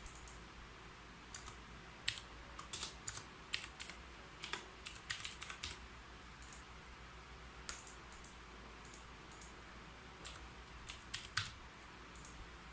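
Typing on a keyboard: irregular runs of key clicks, a few quick keystrokes at a time, with short pauses between runs.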